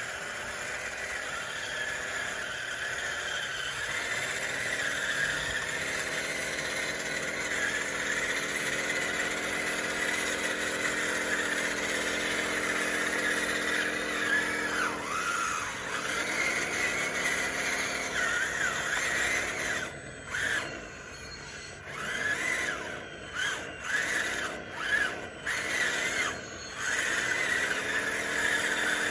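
Radio-controlled bulldozer's electric drive motors and gears whining, the pitch rising and falling as the machine works. About two-thirds of the way through, the whine stops and starts in a series of short bursts.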